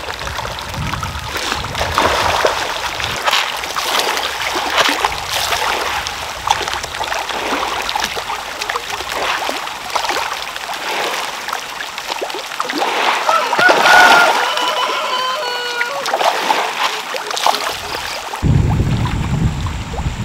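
Water splashing in irregular bursts, with a deep rumble coming in suddenly near the end.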